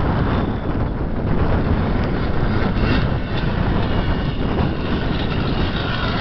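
KTM 380 SX two-stroke single-cylinder motocross engine running, mixed with heavy wind buffeting on the microphone.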